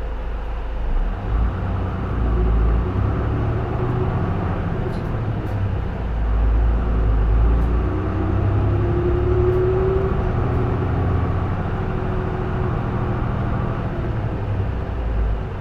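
J-Bus PKG-LV234L2 city bus's straight-six diesel engine running as the bus drives, with a rising whine about halfway through.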